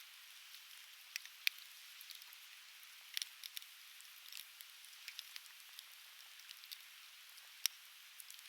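Conifer firewood burning in an open fire, crackling with scattered sharp pops, the loudest near the end, over the steady hiss of a river flowing by.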